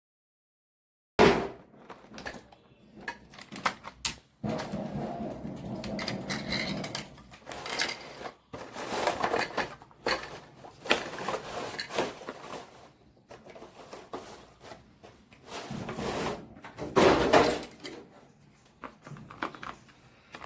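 Plastic toy excavator being handled and played with: irregular clicks, knocks and clunks with bouts of rattling, a loud knock about a second in after a moment of silence.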